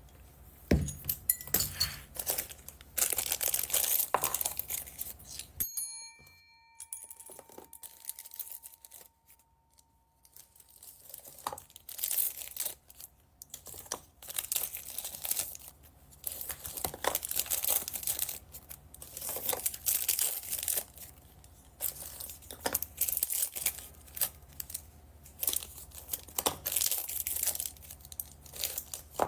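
Plastic packaging bags crinkling and being torn open, in repeated bursts of rustling with short pauses between them. A brief ringing chime sounds about six seconds in.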